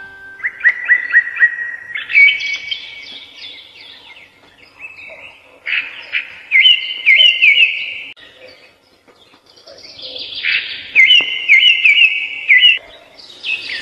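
A songbird singing in short phrases of quick repeated, slurred notes, with pauses of a second or more between phrases.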